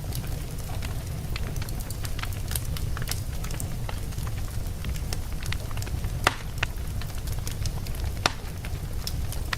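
Wood logs burning in a fireplace: a steady low rumble of flame under scattered crackles and pops, with two louder pops, one a little past the middle and one near the end.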